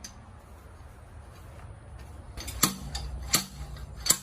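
Pilot bushing puller being struck metal on metal, three sharp clanks about two-thirds of a second apart, starting after about two and a half seconds, each with a short ring: the second attempt to pull the old pilot bushing out of the crankshaft.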